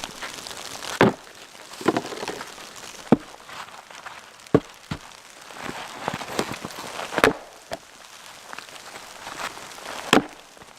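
A series of irregular sharp knocks and thuds over a faint steady hiss, with about half a dozen louder strikes spaced a second or more apart.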